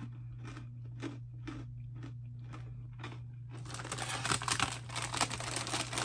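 Crunchy Cheetos Pretzels being chewed, about two crunches a second. After about three and a half seconds the snack bag is crinkled loudly as it is picked up and handled, over a steady low hum.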